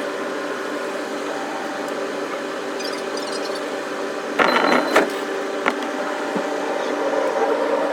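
Running noise of a JR East electric commuter train, heard as a steady mechanical hum with several held tones. A brief, louder rattling burst comes a little past halfway, followed by a couple of sharp clicks.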